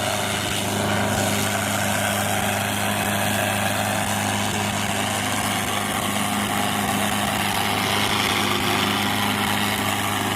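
Sonalika tractors' diesel engines running steadily at a constant pitch, a continuous low hum.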